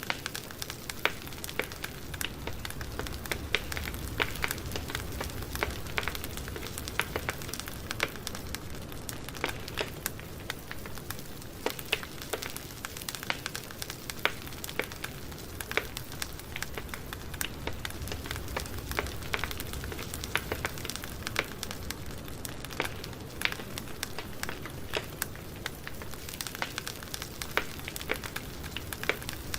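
Campfire burning, with many irregular crackles and pops over a steady hiss.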